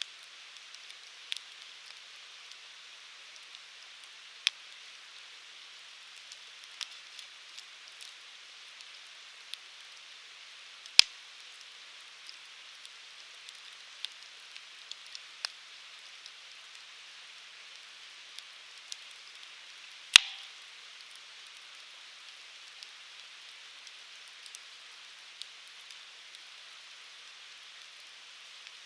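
Firewood burning in a Uniflame Fire Grill: a steady hiss with scattered crackles, and two loud sharp pops, about eleven and twenty seconds in.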